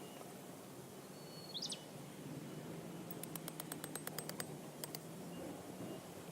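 Quiet outdoor background with a single short bird chirp about a second and a half in and faint peeps repeating about twice a second. Midway comes a quick run of about ten sharp clicks, followed by two more.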